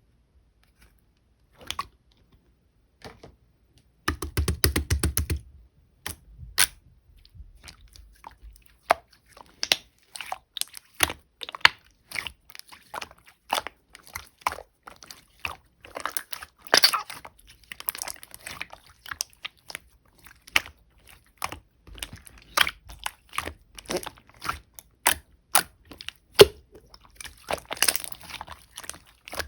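Sky-blue chewy slime handled by hand, giving irregular sticky clicks and small pops as it is pressed and stretched, with a dense run of crackling clicks about four seconds in.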